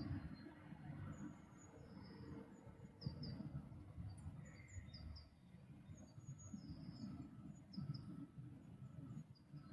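Faint songbirds chirping and singing in short high notes, often in quick pairs, repeating every second or two, over a steady low rumble.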